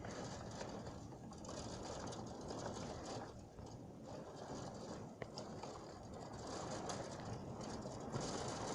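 Heavy rain pattering as a dense, crackly stream of fine taps; it eases a little about a third of the way in and picks up again near the end.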